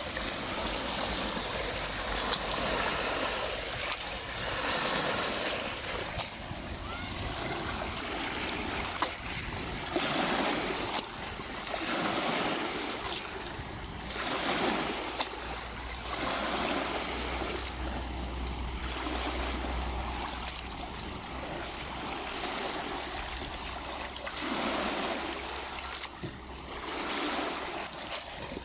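Small lake waves lapping and splashing at the shore, in irregular surges every second or two.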